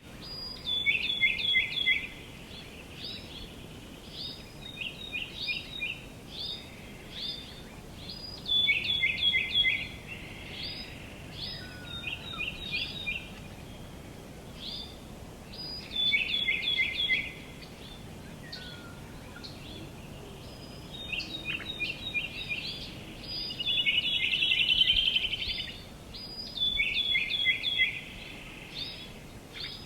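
Songbirds singing: short phrases of quick, chirped notes repeated every few seconds, some louder and some softer, over a steady outdoor background hiss.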